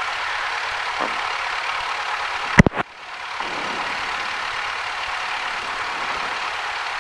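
Cessna 172's engine running at low taxi power, heard as a steady drone-like noise in the cockpit. About two and a half seconds in comes one sharp, loud click, and the noise cuts out briefly before fading back in.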